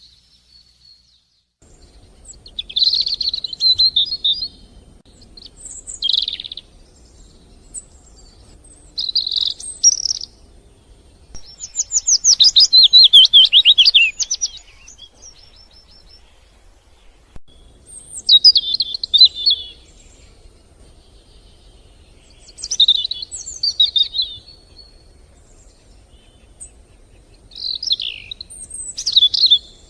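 A songbird singing short chirping phrases every few seconds, with a longer, rapid trill about twelve seconds in, over faint outdoor background noise.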